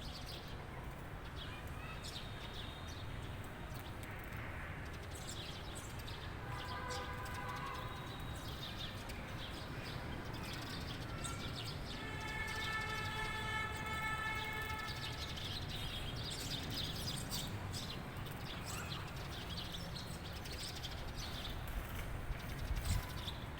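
Small birds chirping and singing over a steady low background rumble. Twice a held, level tone with several pitches stands out, the second lasting about three seconds.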